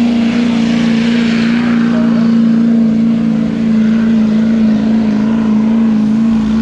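Diesel truck engine held at high, steady revs under heavy load while pulling a weight sled, one strong even drone with only slight wavers in pitch.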